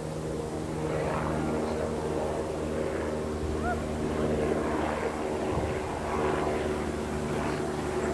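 Swarm of agitated honeybees buzzing around an opened hive in a steady, droning hum.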